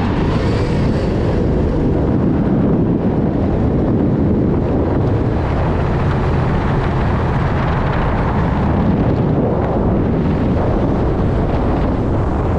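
Car being driven: a loud, steady mix of engine, tyre and wind noise that runs on unbroken.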